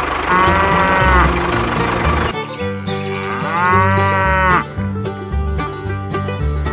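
A cow mooing twice, the second moo longer, over cheerful plucked-string banjo music with a steady beat.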